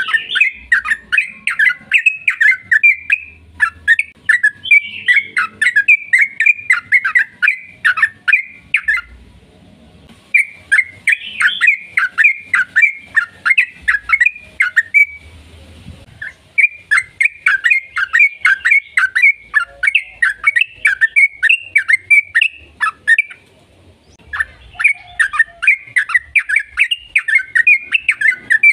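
Yellow-vented bulbul (trucukan) singing in long, rapid runs of bubbling, chattering notes, several a second. The runs break off briefly about every four to seven seconds and start again.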